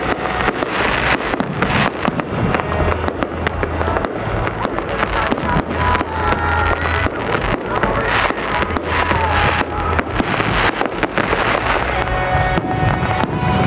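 Fireworks display: aerial shells bursting in quick succession, a dense, continuous run of bangs and crackles.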